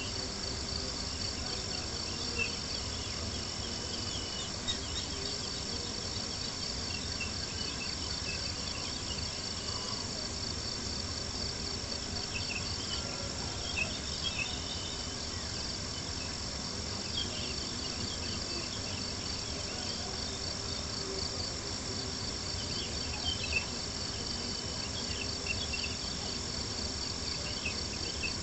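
A steady, fast-pulsing chorus of crickets chirping, with scattered small crackles and pops from a campfire.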